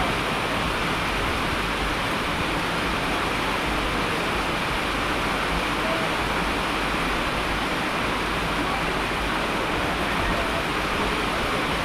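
Steady rain: an even, dense hiss of falling water at a constant level, with no single drops or other events standing out.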